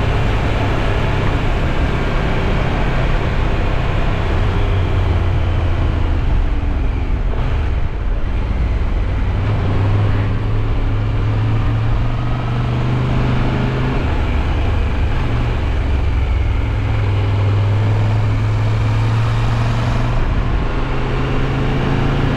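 Triumph Tiger 1200 Rally Pro's three-cylinder engine running under way, with a steady rush of wind and road noise. The engine pitch rises and falls with the throttle and climbs near the end.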